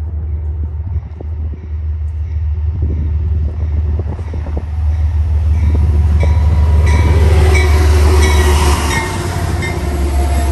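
A train passing close by: a steady low rumble that grows louder over the first half, with scattered knocks of wheels on rail and high-pitched wheel squeal coming in over the second half.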